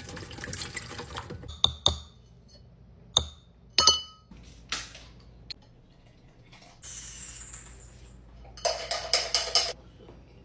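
A water tap running and then shut off, followed by a few sharp clinks and knocks of small hard household items, some ringing briefly, and a quick rattling clatter near the end.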